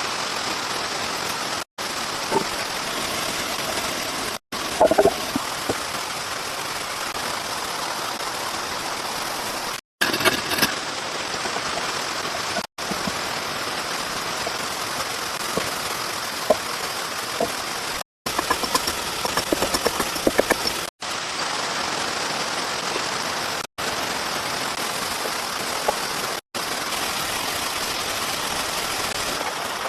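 Steady hiss of heavy rain, with a few short knocks and taps scattered through it. The sound breaks off abruptly for an instant every few seconds.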